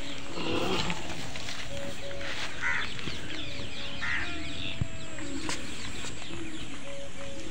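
Birds chirping and calling over a steady background hiss.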